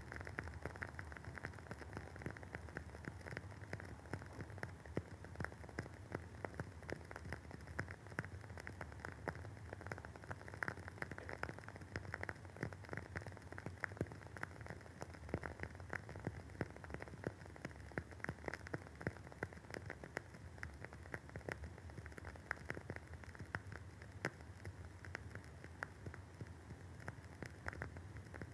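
Woodwick candle's wooden wick crackling as it burns: a steady stream of small, quick pops and snaps.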